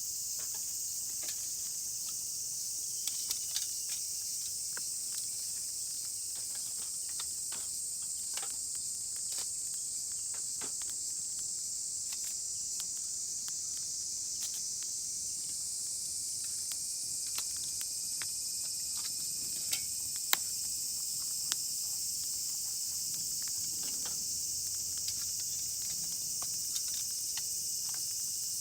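Steady high-pitched chorus of insects, with scattered sharp clicks and a few louder ticks, the sharpest about twenty seconds in.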